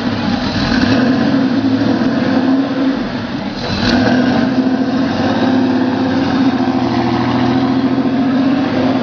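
Porsche 964 RS's air-cooled flat-six engine running at steady revs, with a brief dip about three seconds in and a short sharp click just before four seconds.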